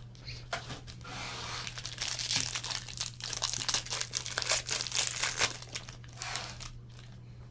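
Trading-card pack wrapper being torn open and crinkled by hand, a dense crackling rustle that thins out near the end.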